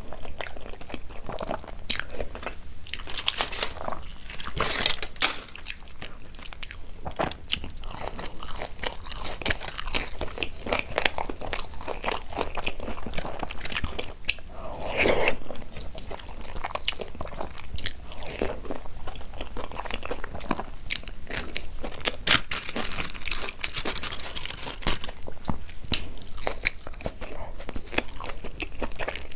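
Close-miked eating sounds: a person chewing a mouthful of dal and rice, with many irregular wet clicks and crunchy bites.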